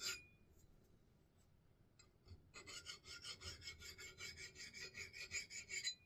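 Rapid hand-sharpening strokes scraping across the thin steel bit of an axe head, about five strokes a second, with a faint metallic ring. A brief scrape comes right at the start, then after a pause the strokes run steadily from a little over two seconds in and stop just before the end.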